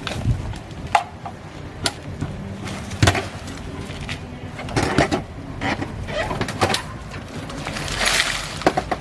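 Irregular knocks and clatters of hand-tool work on a car, with a short scraping hiss about eight seconds in.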